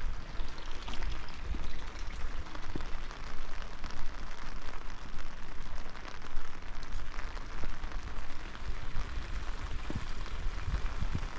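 Steady rain falling, a dense patter of small drops, over a low rumble, with a few heavier low thuds near the end.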